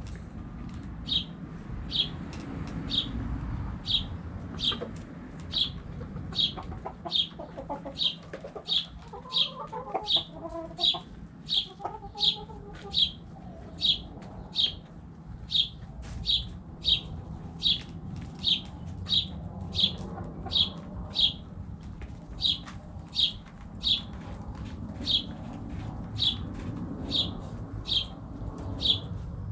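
A bird chirping over and over at a steady pace, just under two short high chirps a second, over soft hen clucking that swells about a third of the way in.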